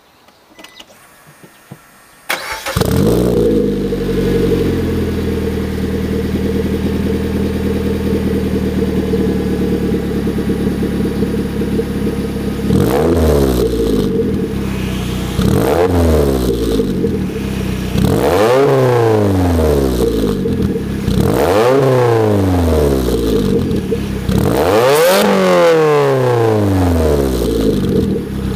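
Suzuki Swift Sport ZC31S's 1.6-litre four-cylinder engine through a Fujitsubo RM-01 aftermarket muffler and 60 mm centre pipe, starting up about two seconds in and idling steadily. From about halfway on it is blipped in a series of free revs, each climbing and falling back to idle, the later ones going higher and lasting longer.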